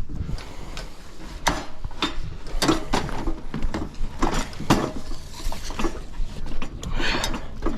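Metal tools and fasteners in a loaded roofer's tool belt clinking and clattering, a string of irregular sharp knocks.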